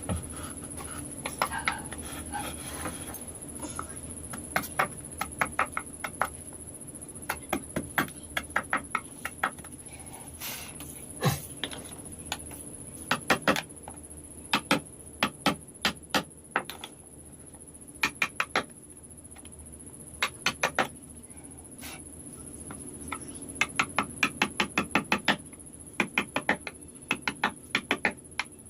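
Runs of sharp taps, several a second with short pauses between runs: a small hammer or mallet striking a carving chisel into wood.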